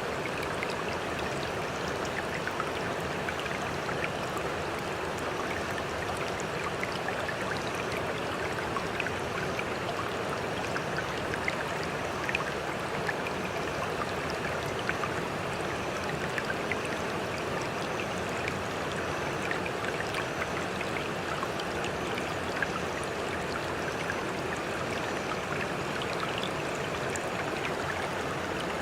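Stream water running steadily, an even rushing sound with small scattered ticks throughout.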